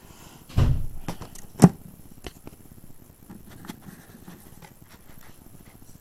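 A dull thump about half a second in, then a sharp knock about a second later, followed by scattered light clicks and taps.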